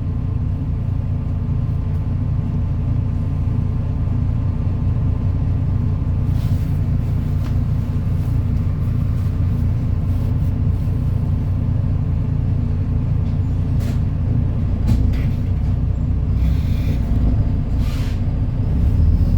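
MAN Lion's City NL293 city bus's diesel engine running with a steady low rumble, with a few short clicks and a brief hiss, typical of the bus's air system, a few seconds before the end; the rumble grows a little louder near the end.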